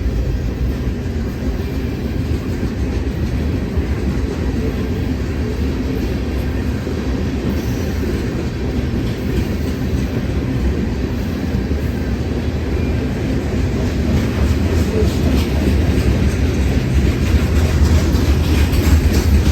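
Freight train rolling past: a steady low rumble of railcar wheels on the rails. It grows louder in the last few seconds, with more wheel clicking.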